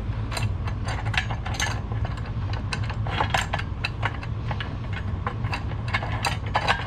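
Small metal hardware clicking and clinking irregularly as parts are fitted and tightened by hand, over a steady low hum.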